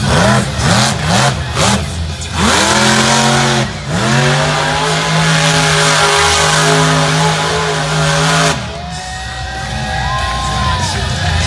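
Monster truck engine revving in several quick blips, then climbing and held at high revs through a donut. Near the end it drops off to a lower, quieter note.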